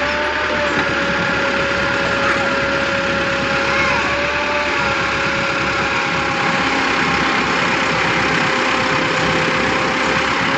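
Tractor engine running steadily, with a constant whine over the rumble.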